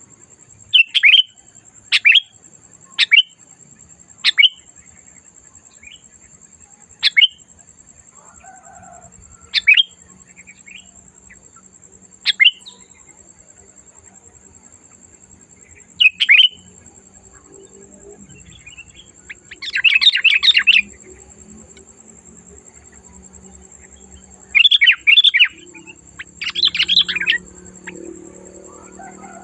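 Sooty-headed bulbul (kutilang) calling loudly: a series of short, sharp single notes a second or more apart, then three longer bursts of rapid chattering song in the second half.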